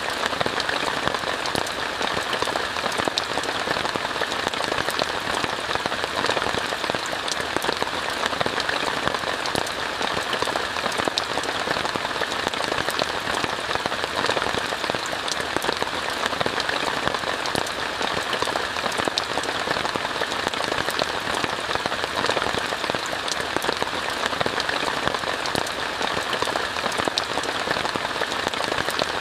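Steady rain falling on a tent, a continuous even hiss flecked with many small drop ticks.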